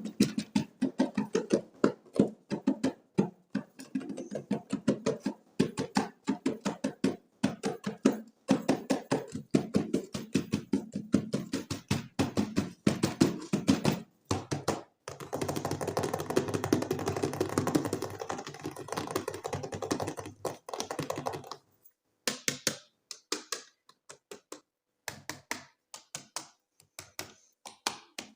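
Hands unboxing toys: quick runs of taps and clicks on plastic and cardboard packaging, with about six seconds of continuous rustling in the middle, then a few scattered taps near the end.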